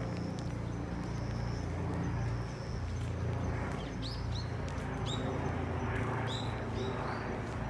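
Small birds chirping: short high notes that sweep downward, repeated several times in the second half, over a steady low rumble.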